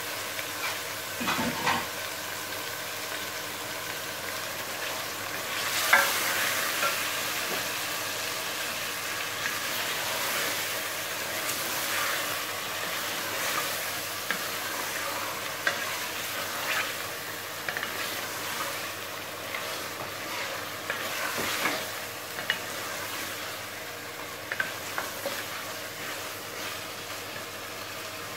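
Raw chicken pieces sizzling as they fry in hot oil and onion-tomato masala in a steel pot. A wooden spoon stirs them and knocks against the pot now and then, loudest about six seconds in.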